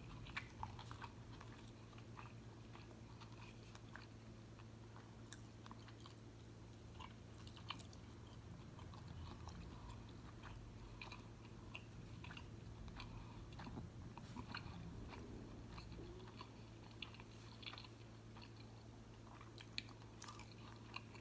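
Close-miked chewing of a mouthful of steak and tortilla, with many small wet mouth clicks and bites, over a faint steady low hum.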